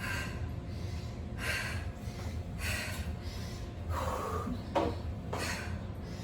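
A person breathing hard from exertion during a high-intensity workout, about six heavy breaths roughly a second apart.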